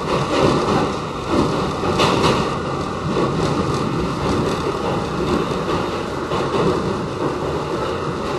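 Westinghouse-equipped R68 subway car running along the track, heard from inside the car: a steady rumble of wheels on rail with irregular clacks from the wheels over the track.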